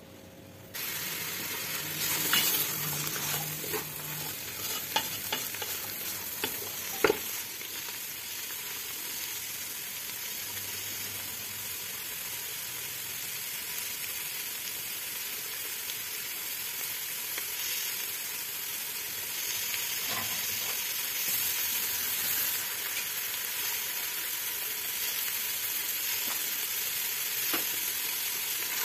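Chopped herbs, beans and meat for ghormeh sabzi frying in a pot with a steady sizzle that starts about a second in. A wooden spoon knocks against the pot a few times in the first several seconds.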